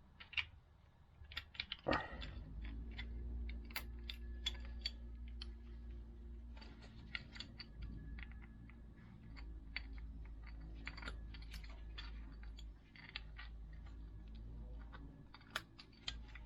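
Workshop handling noises: scattered clicks and taps of small parts, with a steady low hum that starts with a knock about two seconds in.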